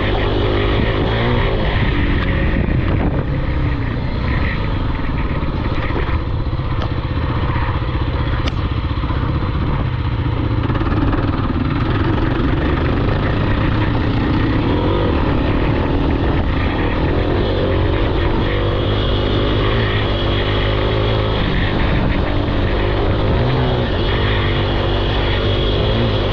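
Off-road vehicle engine running hard, its pitch rising and falling with the throttle as it is ridden.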